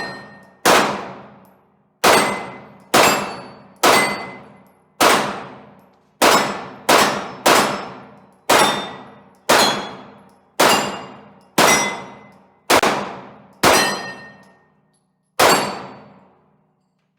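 About fifteen 9mm pistol shots from a Glock 22 fitted with a Lone Wolf Alpha Wolf 40-to-9mm conversion barrel, fired at roughly one a second with a longer pause near the end. Each shot is followed by the clang of a hit steel target ringing and fading out.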